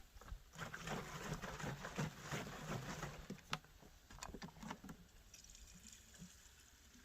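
Light clicking and knocking of hands working on the chainsaw, a quick irregular run of small clicks for about five seconds that then fades to faint background.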